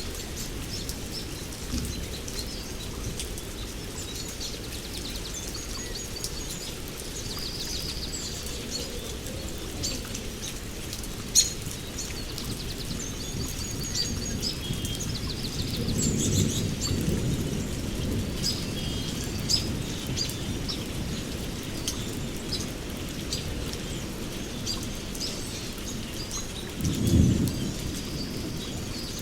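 Rain falling steadily while birds chirp and call throughout. Low thunder rumbles twice, a longer roll about halfway through and a shorter, louder one near the end.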